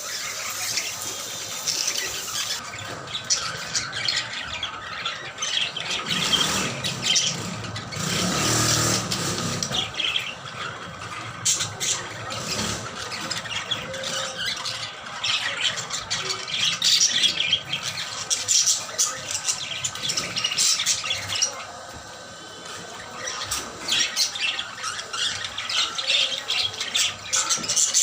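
Parrots squawking and screeching, harsh calls overlapping almost without pause, with a short lull about two-thirds of the way through.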